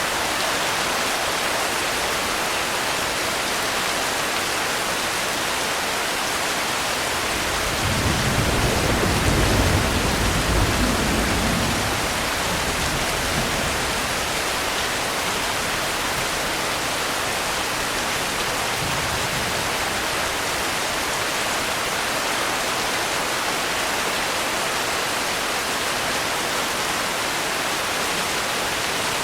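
Steady rain falling throughout. About eight seconds in, a low rumble of distant thunder swells for about four seconds, then fades back under the rain.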